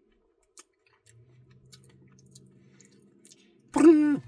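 Faint chewing and wet mouth clicks of someone eating, then near the end a short, loud voiced sound from the eater, about half a second long, its pitch dropping as it stops.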